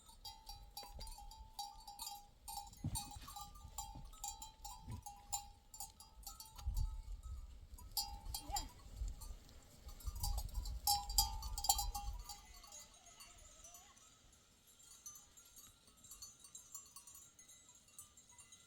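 Bells on grazing sheep and goats clinking and ringing, with an occasional short bleat and a low rumble in the middle.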